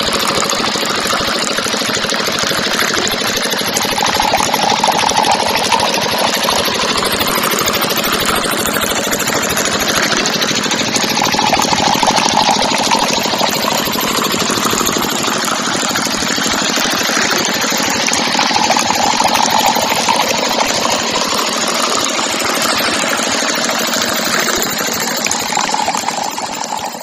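Small motor of a miniature model tractor running steadily with a fast rattling chatter, fading out near the end.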